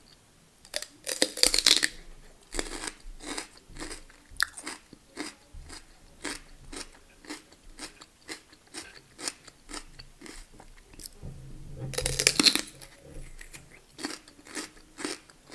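A person biting and chewing crunchy food: a loud crunching bite about a second in and another near twelve seconds, with regular chewing strokes, about two to three a second, in between and after.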